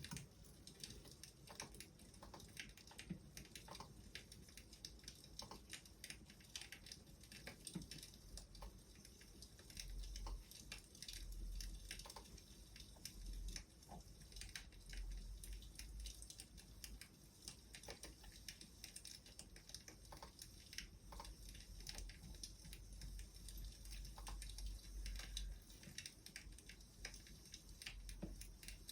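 Wood fire crackling softly, with small irregular pops and snaps.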